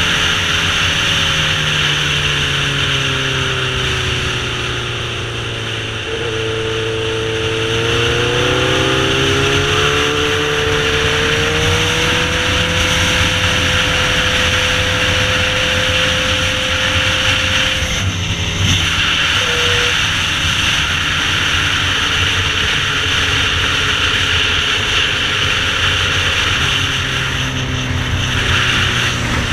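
Sportbike engine running under way, its revs falling for a few seconds and then climbing slowly and holding, with a short break about eighteen seconds in, over a steady rushing noise.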